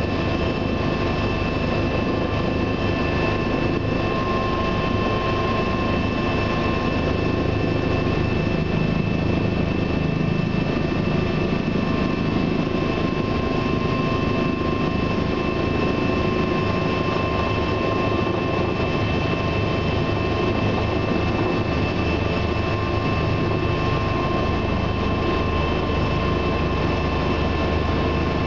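Bell 429 helicopter's cabin noise in steady flight: a dense, even rumble from the rotors and twin turboshaft engines, with several steady high whining tones over it.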